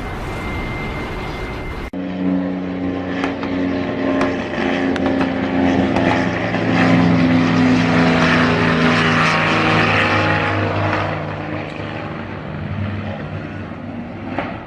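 Even rushing noise for about two seconds, then a propeller aircraft's engine drone with a steady pitch, growing louder to a peak past the middle and fading again, as when a plane passes close by.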